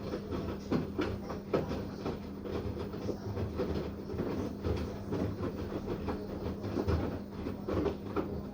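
Washing machine running a wash cycle: a steady motor hum under a dense, irregular clatter of knocks and rattles from the turning drum.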